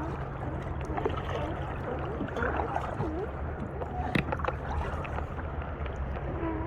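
Water sloshing around a fishing kayak as it is paddled in, with a few sharp knocks, one louder about four seconds in, over a steady low rumble.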